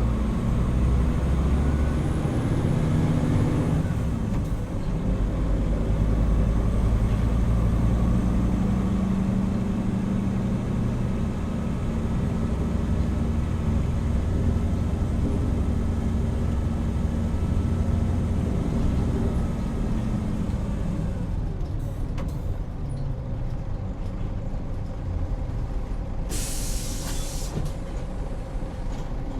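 Hino Rainbow HR route bus's diesel engine pulling, its note changing about four seconds in, then running steadily before dropping away as the bus slows. Near the end a short burst of compressed-air hiss from the air brakes.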